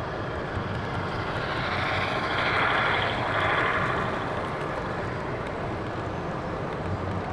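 HO scale model train of the NYC 20th Century Limited passing close by, its wheels and motor rising to a hiss-like run and fading away over a couple of seconds, over a steady murmur of a busy exhibition hall.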